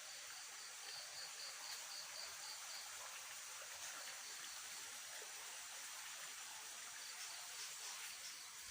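Faint night-time outdoor ambience: an insect chirping in an even pulse of about four chirps a second, which pauses in the middle and resumes near the end, over a steady hiss.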